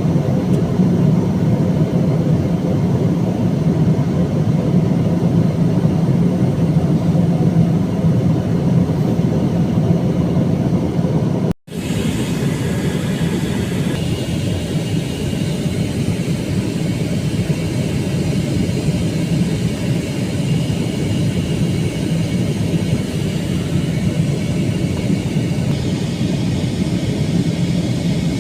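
Steady cabin roar of an Airbus A321-200 airliner in descent, heard from inside the cabin: a constant rush of air and engine hum. The sound cuts out for a split second a little before the middle, then carries on with a slightly thinner hum.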